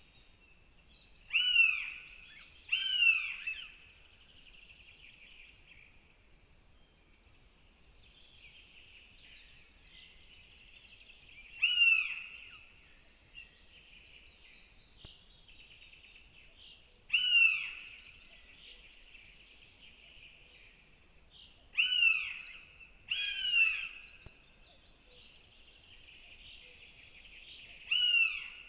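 Northern goshawk calls: seven loud cries that rise and then fall in pitch, each under a second long, coming singly or in pairs several seconds apart, over a steady faint high chatter.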